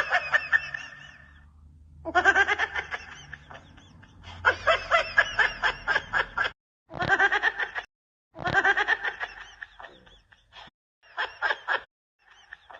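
A person laughing in about six separate fits of rapid, pulsing laughter, with short pauses between them.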